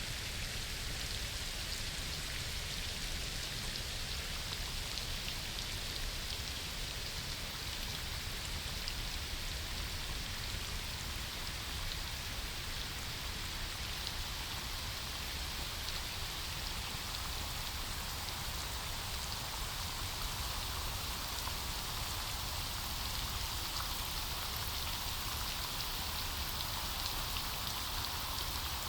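Steady rain falling on forest foliage, an even hiss of many fine drops with scattered individual drip ticks.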